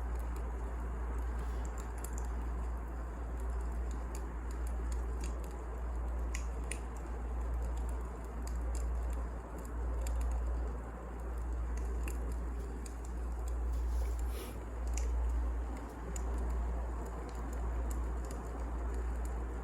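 Wood fire burning: a low, swelling rumble with scattered sharp crackles and pops from the burning logs.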